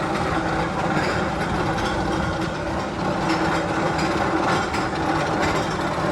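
Magnum XL 200 roller coaster train running along its steel track: a steady mechanical rolling noise with light rapid clicking.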